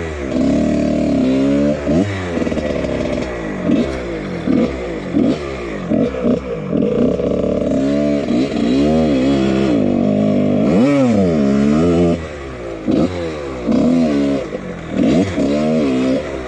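1999 Husqvarna CR125's 125 cc single-cylinder two-stroke engine, fitted with a Pro Circuit exhaust, being ridden hard on a trail: it revs up and drops back over and over, its pitch rising and falling with throttle and gear changes, with a few brief let-offs near the end.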